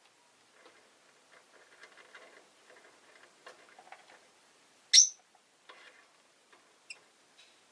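Rosy-faced lovebirds: faint soft chatter, then one loud, sharp chirp about five seconds in, followed by a few fainter short chirps.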